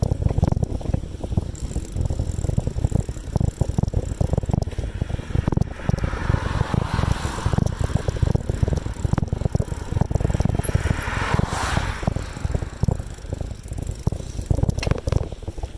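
Bicycle being ridden along a road: a steady low rumble and rattling of the bike over the pavement, with two swells of rushing noise, one about midway and another a few seconds later.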